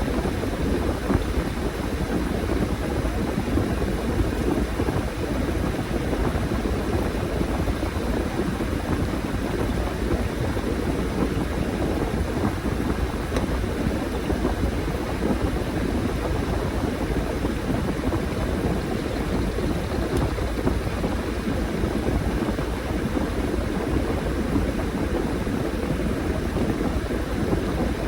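Washing machine running a load with a steady whirring drone.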